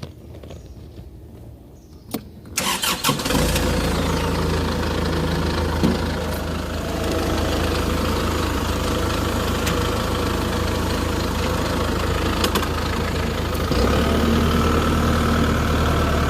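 A tractor engine starts about two and a half seconds in and settles at once into a steady idle.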